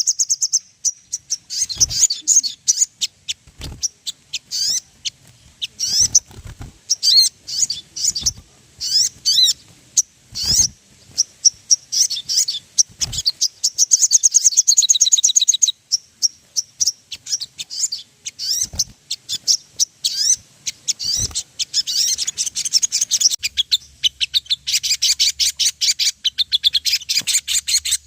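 Crimson sunbird (sogon) singing: a rapid string of thin, high chirps and whistled notes, breaking twice into fast trills, the second lasting several seconds near the end. A few faint low knocks come between the phrases.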